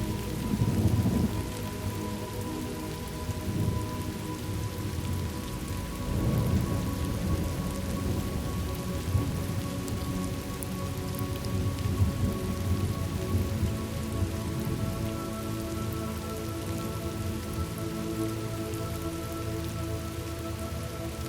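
Recorded thunderstorm ambience: steady rain with low thunder rumbles about a second in and again around six seconds, over a few faint held tones.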